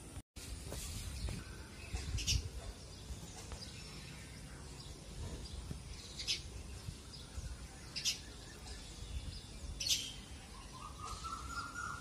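Small birds chirping: about four short, sharp chirps spread a few seconds apart, over a low background rumble, with a rising whistle-like note near the end.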